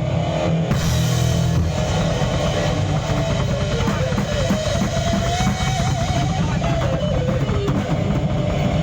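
A rock band playing live in a studio sound check: drum kit, electric guitar and bass together, with a cymbal crash about a second in and a held, wavering lead melody through the middle.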